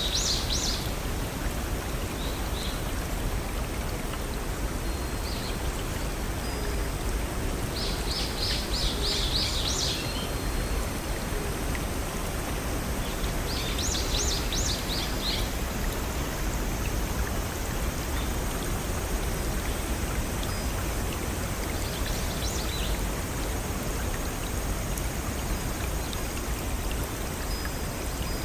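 Steady rushing of a small forest waterfall and brook. A bird sings a quick trill of rapid, high repeated notes four times.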